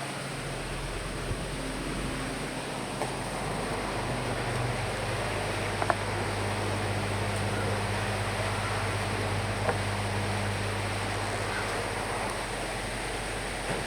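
Steady rain and wind, an even hiss with a low hum underneath and a couple of faint taps.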